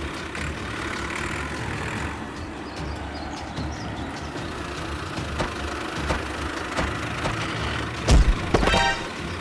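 Mini tractor's small engine running steadily, with scattered light knocks. About eight seconds in comes a loud thump, followed by a brief pitched sound.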